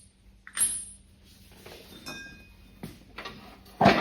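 Metal parts and hand tools clinking and knocking during work on a mower deck's blade spindle, with a short ringing clink about half a second in, a faint ring around two seconds in, and a louder knock near the end.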